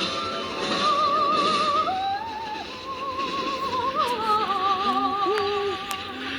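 A high voice singing long, wavering notes with a strong, even vibrato, sliding up and down between a few held pitches.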